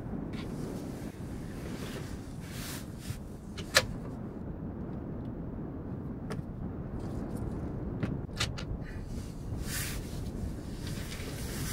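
A steady low rumble with scattered sharp clicks and knocks, the loudest a single sharp click about four seconds in.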